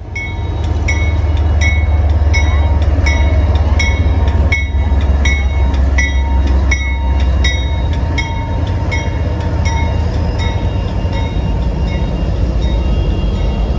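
Diesel freight train passing close by, a deep engine rumble under a bell ringing about three times a second; the bell grows fainter after about eight seconds.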